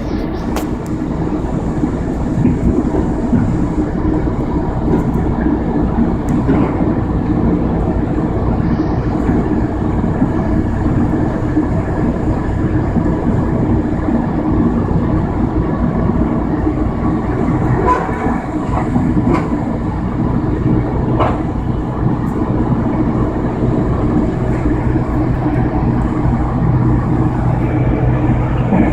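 Amtrak passenger train heard from inside the passenger car: a steady rumble of wheels on the rails, with a couple of sharp clacks about two-thirds of the way through.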